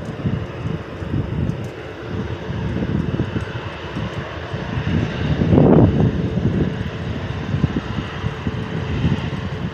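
Airliner engine noise from a passing plane, mixed with heavy wind buffeting the microphone; a strong gust swells about six seconds in.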